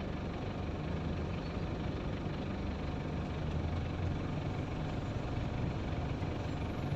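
Truck engine running steadily at low revs, a steady low-pitched engine sound with road noise.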